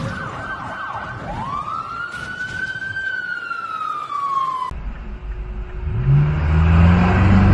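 Emergency vehicle siren: a quick warble, then a slow wail that rises and falls, cut off abruptly about 4.7 seconds in. After the cut, a car engine revs up with rising pitch and becomes the loudest sound near the end.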